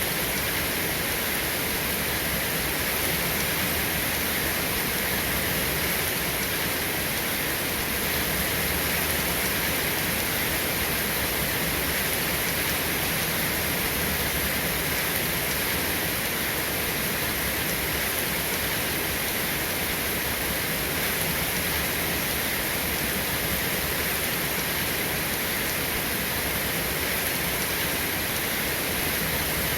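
Steady, heavy rain falling without a break, an even hiss with no thunder.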